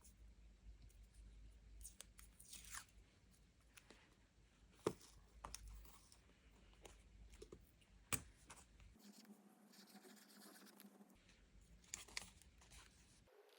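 Faint tearing and handling of paper stationery during journal decorating, with a few short sharp taps about five, eight and twelve seconds in.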